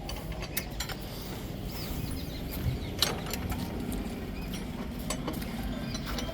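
Scattered metallic clicks and knocks of hand tools working on a tractor bumper's fittings, over a low steady background rumble, with the sharpest knock about three seconds in.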